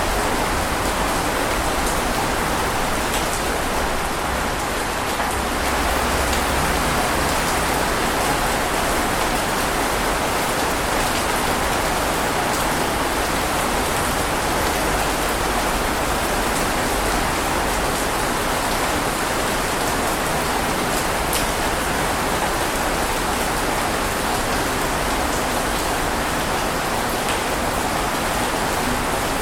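Steady, even rain falling, with the occasional louder drop ticking out of the hiss.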